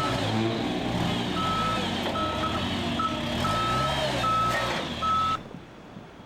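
A truck engine running and shifting in pitch, with a high electronic reversing beeper sounding in uneven pulses over it. Both cut off abruptly about five seconds in, leaving a faint steady background.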